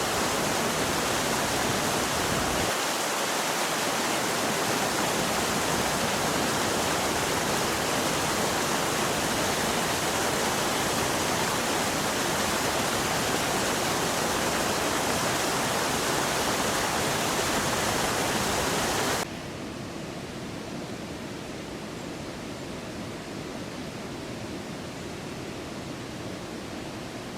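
Steady rush of flowing water. About two-thirds of the way through it cuts abruptly to a quieter, duller rush.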